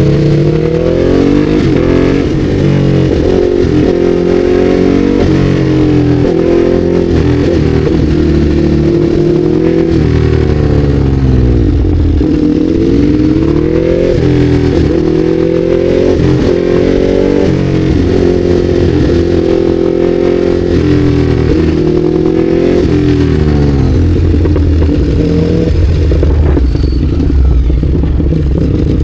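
Ducati Hypermotard 821's L-twin engine being ridden hard, heard from on board. The pitch climbs repeatedly under acceleration, breaks at each gear change and falls away on roll-off.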